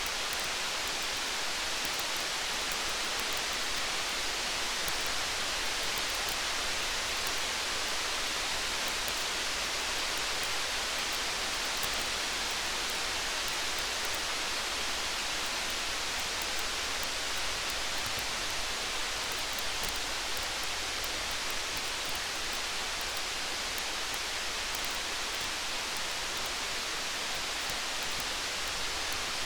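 Steady rain falling, an even hiss, with faint small crackles of a campfire scattered through it.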